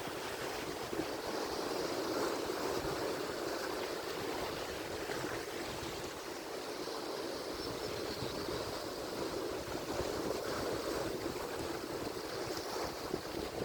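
Atlantic Ocean surf: waves breaking and washing in a steady rushing noise that swells and eases gently.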